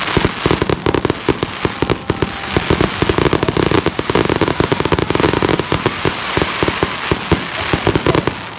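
Fireworks going off in rapid succession: dense crackling with many overlapping bangs, without a break.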